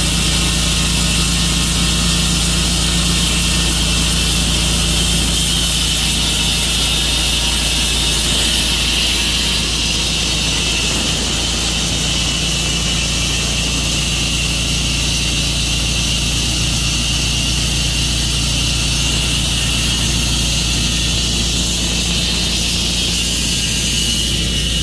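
Tru-Cut sawmill's engine running at a steady speed, with a steady high whine over the engine note.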